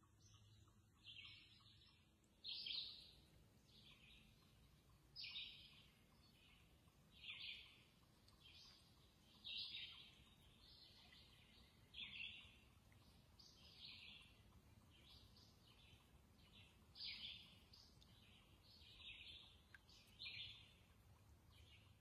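A songbird singing short, high phrases over and over, about one every two seconds, faint against steady low background noise.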